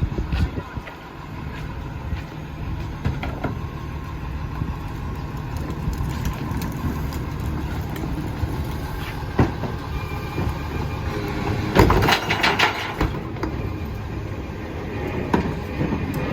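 Heil rear-loader garbage truck running with a steady low engine drone, broken by scattered metal knocks and a burst of clattering about twelve seconds in.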